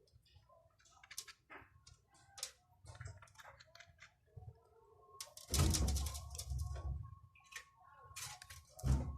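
A series of irregular clicks and knocks, like small hard parts or tools being handled, with a louder clatter and thump about five and a half seconds in and another near the end.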